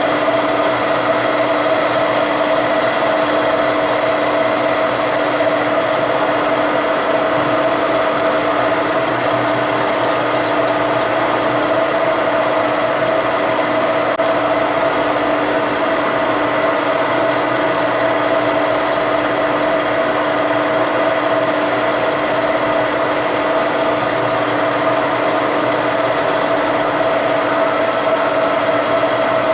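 Machine tool running steadily through a cut on a steel coupler, a constant motor and spindle hum with an unchanging pitch, with a few faint light clicks partway through.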